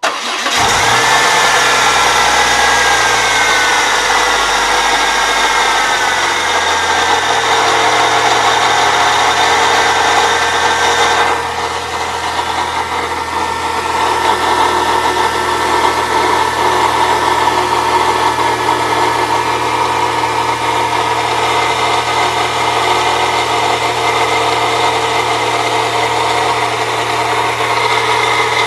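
1998 Saturn SL2's 1.9-litre DOHC four-cylinder engine starting and settling to idle, its pitch falling over the first few seconds, with a grinding noise from the accessory belt drive. The noise persists after new idler and tensioner pulleys and goes away when the engine runs without the belt, so it comes from one of the belt-driven accessories. The high-pitched part of the sound drops back about a third of the way in.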